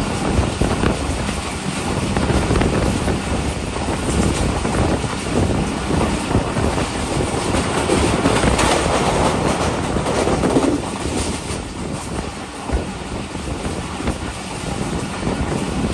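Passenger train running at speed, heard from the open doorway of a coach: steady wheel-on-rail noise with clickety-clack over the rail joints. It grows louder for a few seconds about eight seconds in, as the coach crosses a small railway bridge.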